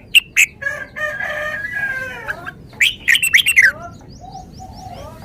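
Red-whiskered bulbul singing: a few sharp, loud notes at the start and a quick run of loud notes about three seconds in. Between them there is a longer drawn-out call lasting about a second, and faint chirps follow near the end.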